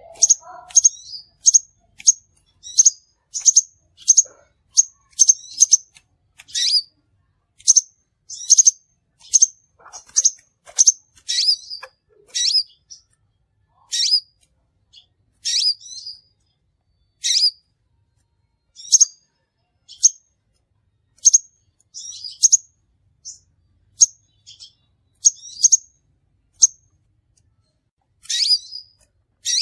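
Crimson sunbird calls from a recorded lure track: short, high, sharp chirps repeated irregularly, about one or two a second with brief pauses between runs.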